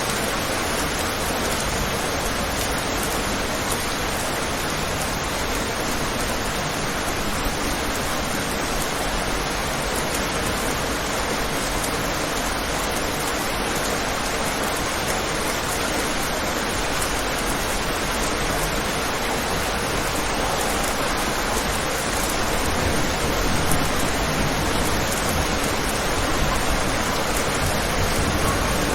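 Steady rain falling on a window, a dense even hiss that grows a little louder in the last few seconds.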